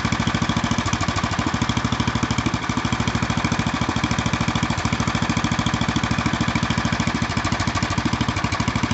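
8 hp Briggs & Stratton single-cylinder engine on a 1974 Sears ST/16 garden tractor idling steadily with an even, rapid putt-putt. The idle is one the owner thinks could be set a hair lower.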